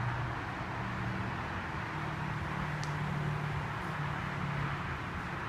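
A steady low motor hum, like a vehicle engine running, over a wash of outdoor noise, its pitch shifting slightly about two seconds in.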